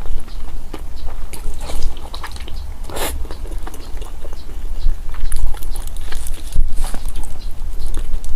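Close-miked eating sounds: chewing, with irregular wet mouth clicks and smacks and a louder smack about three seconds in.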